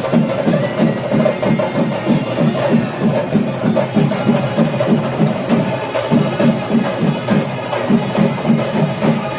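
Kerala temple-festival chenda drums playing a steady, fast beat of about three strokes a second, with a sustained higher tone running over it.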